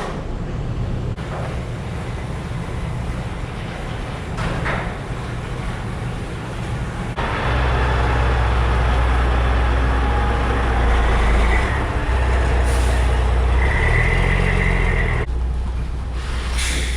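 Truck engine running steadily, louder and deeper from about seven seconds in.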